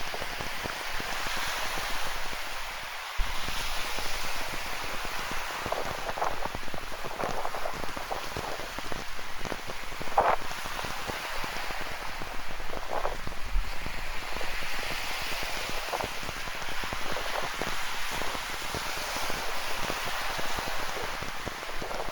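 Rain falling with ocean surf washing on the shore: a steady hiss that swells and eases every few seconds, with scattered louder drops close by.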